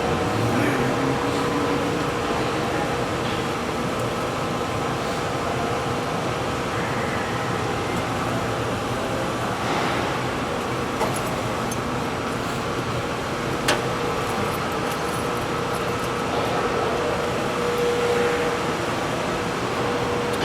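Steady mechanical hum with a constant tone, and a few small clicks with one sharp click about fourteen seconds in.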